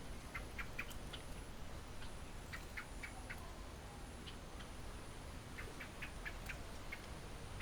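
Birds chirping: short, high, quick notes in three clusters of several each, over a steady low background rumble.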